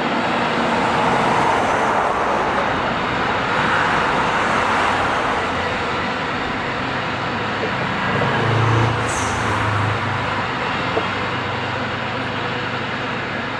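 A train running past with a steady rumble. A deeper hum swells about eight seconds in, and a brief high squeal comes just after it.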